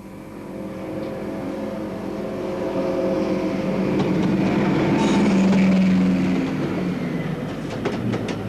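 Deltic diesel-electric locomotive passing, its twin Napier Deltic two-stroke engines droning steadily. The sound builds to a peak about five to six seconds in and then fades. Wheels click over rail joints near the end.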